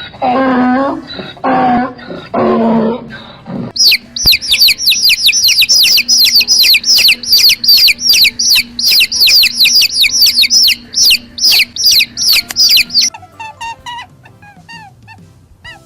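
Three drawn-out pitched animal calls, then a long run of high, quickly falling bird chirps, several a second, lasting about nine seconds. Faint melodic tones follow near the end.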